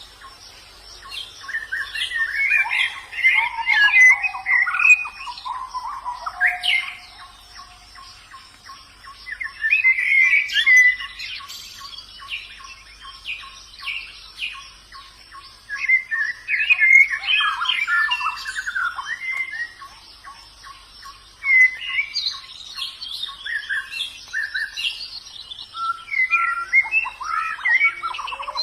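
White-eyes (pleci) singing: bouts of quick, jumbled twittering and chirps a few seconds long, about five of them with short pauses between. A faint, fast, steady ticking runs underneath.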